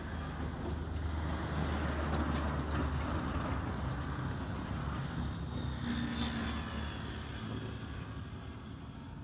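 Motor vehicle engine rumbling steadily, slowly fading away toward the end.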